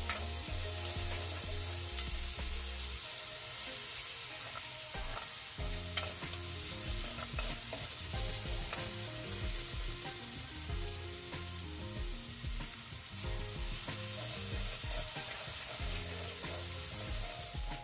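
Chopped tomatoes and onions sizzling in hot oil in a metal kadai while a metal spoon stirs and scrapes through them, with scattered light clinks of spoon on pan. Soft background music plays underneath.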